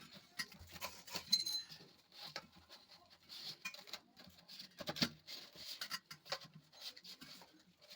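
Scattered light clicks, taps and scrapes of small parts and tools being handled during plumbing work, with a few sharper knocks among them.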